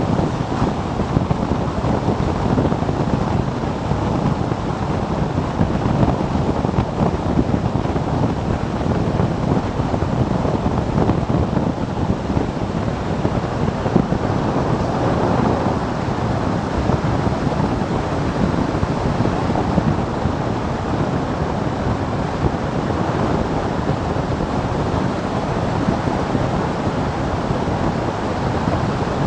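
Steady wind rush on the microphone of a moving motorcycle, loud enough to cover any engine sound, with small rises and falls in level.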